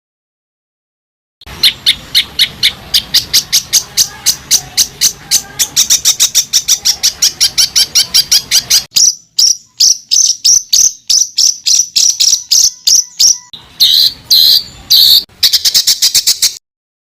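Recorded songbird calls: a fast series of short, sharp, high notes, several a second and coming faster, with a short break near the middle and a few louder bursts near the end. This is rapid-fire 'tembakan' tutor song used to teach competition songbirds.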